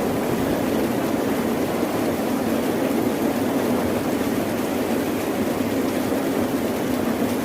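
Steady, dense rain-storm ambience: an even wash of rain noise with a deep, continuous rumble and no separate drops or thunderclaps standing out.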